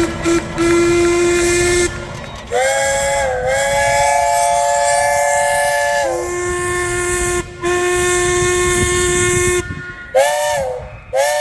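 Steam traction engine whistles blowing in turn. A lower single-note whistle gives long steady blasts, alternating with a chord whistle of several notes that sags in pitch as each blast begins; near the end come two shorter chord blasts.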